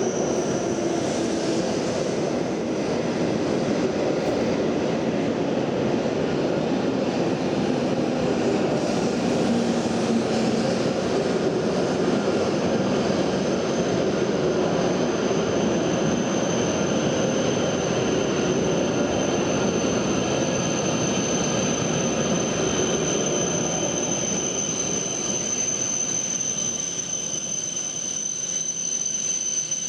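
Shinkansen train running through the station with a steady, loud rushing noise and a high, steady whine over it, easing off slightly near the end.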